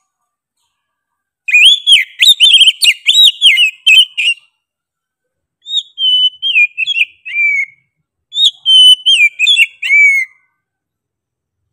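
Oriental magpie-robin (kacer) singing loudly in three bursts of rapid whistled notes that bend up and down in pitch, the last two phrases sliding downward at their ends.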